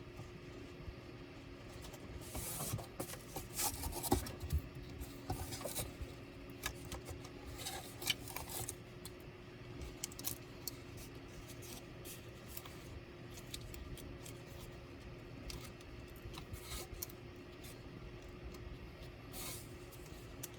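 Clicks and scraping of tools and small parts being handled during laptop disassembly, busiest in the first half, over a steady low hum.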